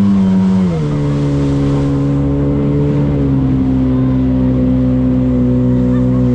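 Boat engine running steadily, its pitch dropping once about a second in as it eases off, then holding level.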